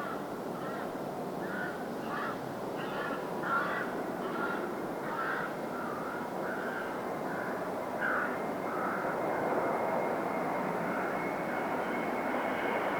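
Jet airliner approaching to land: a steady rushing engine noise that grows gradually louder, with a thin, high, steady whine coming in about two-thirds of the way through. Crows caw repeatedly over it for most of the time.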